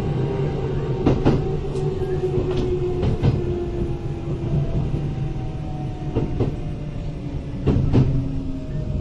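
Kintetsu 8000 series electric train running, heard from inside the car: a steady rumble with a motor and gear whine that falls slowly in pitch as the train slows. Wheels click over rail joints a few times, some in quick pairs.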